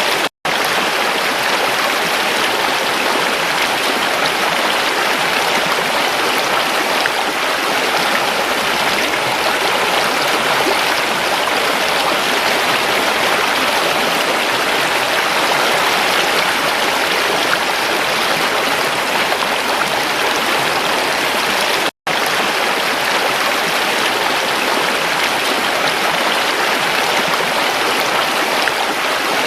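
Creek water rushing steadily over rocks, an even splashing flow. The sound cuts out for an instant twice, once just after the start and once about three-quarters of the way through.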